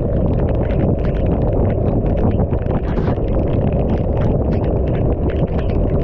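Wind rushing over the microphone of a camera on a motorcycle ridden through heavy rain, a steady low roar, with many small sharp ticks of raindrops striking the camera.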